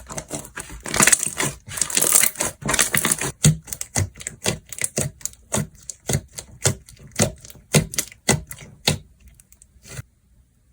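Slime being squeezed and poked by hand, crackling densely for about three seconds and then popping in sharp separate clicks about twice a second. The clicks stop near the end.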